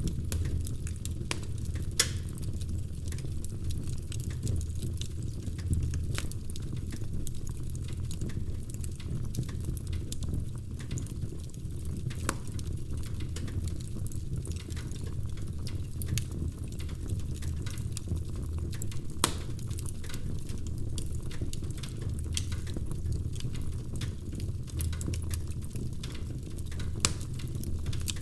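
Wood fire crackling in a fireplace: frequent small snaps and pops over a steady low rumble of the flames, with a few louder pops, about two, twelve and nineteen seconds in.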